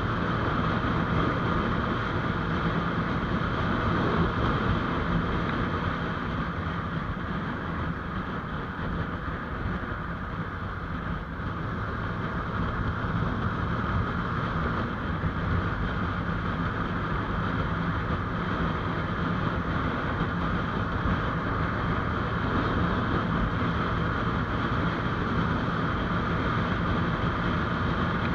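GPX GR200R motorcycle engine running steadily at riding speed, with wind rushing over the microphone. The overall sound eases slightly about a third of the way through, then picks back up.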